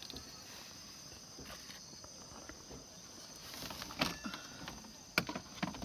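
Steady high-pitched chorus of insects, with a few sharp clicks and knocks about four seconds in and again near the end.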